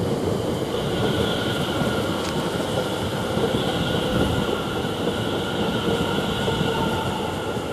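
Two coupled Greater Anglia Class 720 electric multiple units rolling past as they arrive at the platform: a steady rumble of wheels on rail, with a steady high whine over it.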